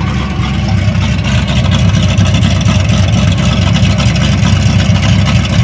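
1978 Chevy Caprice's 305 small-block V8 running steadily at low revs through dual glasspack mufflers, a deep pulsing exhaust rumble that gets a little louder about two seconds in.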